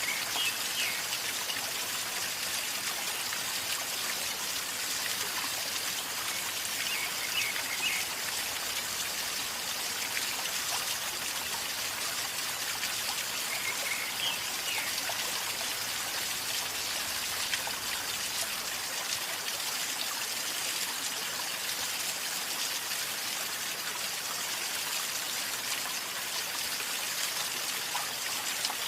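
River flowing calmly and gurgling steadily, an even rush of water, with a few faint high chirps now and then.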